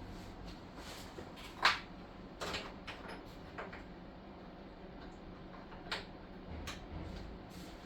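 A few short, sharp knocks or clicks at irregular intervals, the loudest about a second and a half in, over a low steady hum.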